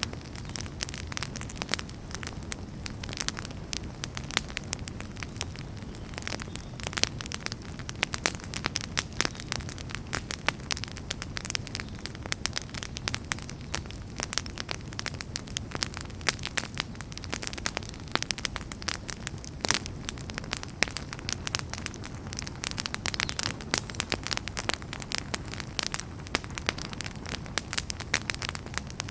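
Wood fire burning with a steady low rumble and dense, irregular crackles and pops from the burning firewood.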